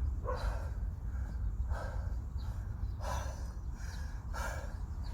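A person breathing hard: a rasping breath about every second and a half, over a low steady rumble.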